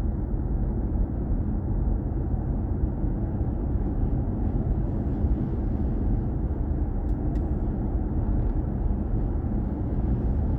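Steady low road and tyre rumble inside the cabin of a BMW i4 M50 electric car on the move, with no engine note, only a faint steady hum. A couple of faint ticks come about seven seconds in.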